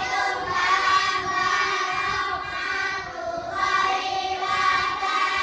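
A group of young children singing together, holding long notes in unison.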